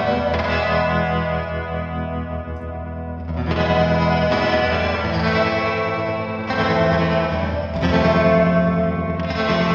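Electric guitar played through a Big Ear Pedals Albie multi-effect pedal: chords struck every second or two and left ringing, heavily modulated and lush, with a chorus-like wavering.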